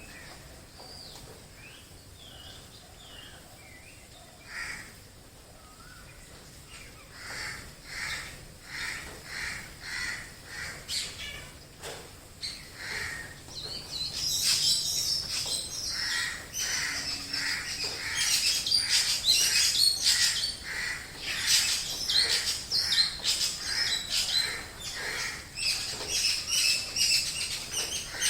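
Mixed chorus of wild birds calling together. Faint scattered calls at first; from about a quarter of the way in, one call repeats in a steady series; from about halfway, a dense layer of high chirping joins in and the chorus grows much louder.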